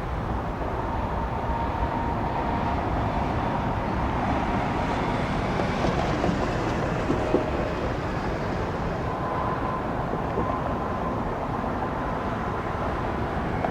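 McDonnell Douglas MD-81 jet airliner's rear-mounted Pratt & Whitney JT8D turbofans at takeoff power, a steady roar with a thin whine over it.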